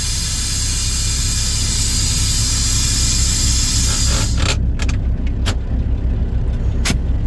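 Dump truck's diesel engine running under a loud steady hiss of air, which cuts off about four seconds in. A few short, sharp puffs or clicks follow.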